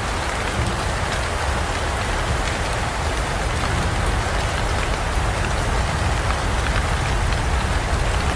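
Steady heavy rain falling and pattering on surfaces, with many fine drop impacts and no thunder.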